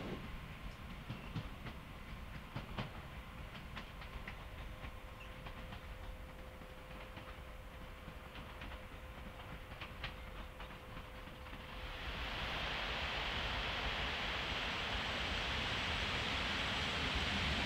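Distant electric multiple unit approaching: faint clicks of wheels over rail joints and points, with a thin steady whine. About twelve seconds in, a louder steady rushing noise sets in as an electric locomotive hauling passenger coaches approaches.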